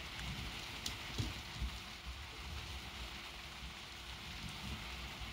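Light rain falling steadily, with a few brief ticks.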